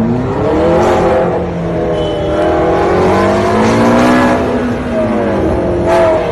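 A red open-top supercar's engine revving hard and accelerating, its pitch climbing and falling in long sweeps, with a short sharp knock about six seconds in as the car hits other cars.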